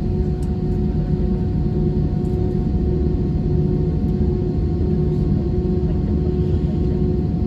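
Airbus A320 cabin noise: a steady low rumble from the aircraft with a constant hum on top, unchanging throughout.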